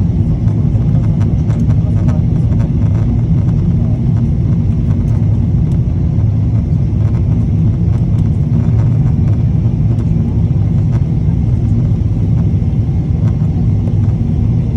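Steady low rumble of a running vehicle, with faint scattered clicks and rattles over it.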